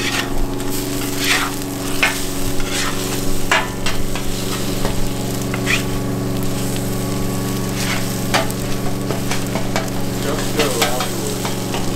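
Scrambled eggs sizzling on a hot flat-top griddle while a spatula scrapes and stirs them across the metal at irregular intervals, over a steady low hum.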